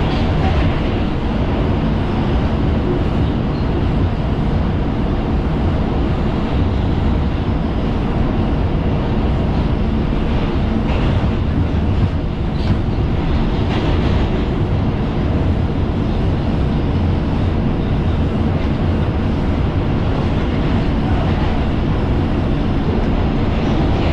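Inside an R142 subway car running between stations: a steady rumble of wheels on rail and running gear, unbroken throughout.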